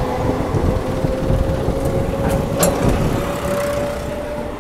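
Local passenger train running on the line: a steady rumble with a thin hum that rises slightly in pitch, and a couple of sharp clicks about two and a half seconds in.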